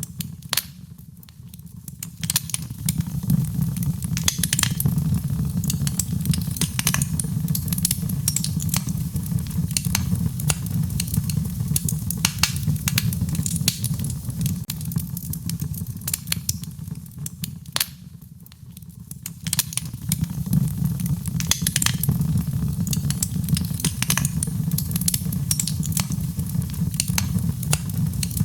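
Wood fire crackling, with frequent sharp pops and snaps over a steady low rumble. The rumble fades briefly about a second in and again about two-thirds of the way through.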